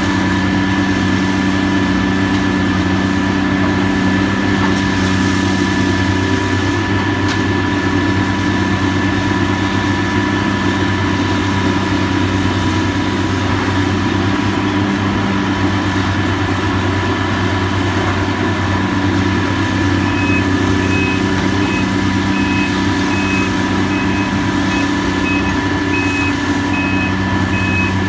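Heavy diesel demolition machinery running steadily with a low engine hum. About two-thirds of the way through, a backup alarm starts beeping in short, repeated beeps.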